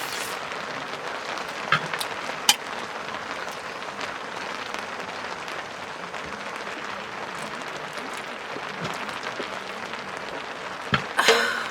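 Steady rain falling on tent fabric, an even hiss throughout. A couple of sharp clicks about two seconds in, and a short, louder rustle near the end.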